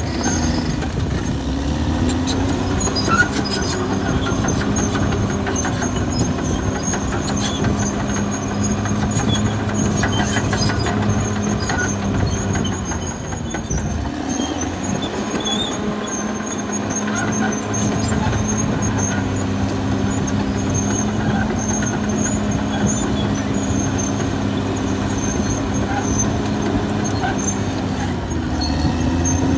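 Caterpillar D6R XL bulldozer's diesel engine running under work, with its steel tracks clanking and squealing. The engine note eases about halfway through, then picks up again.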